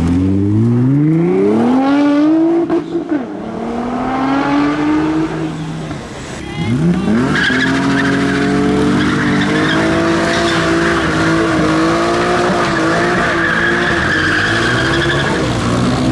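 Car engine revving hard, its note climbing twice, then held high while the tyres squeal for about eight seconds: a wheelspin or drift.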